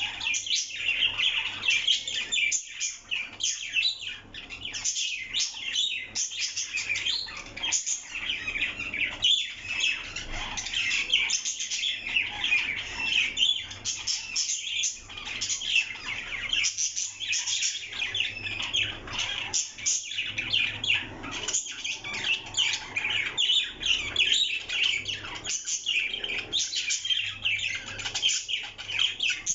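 Parrot chirping and chattering in a rapid, unbroken stream of short high-pitched calls.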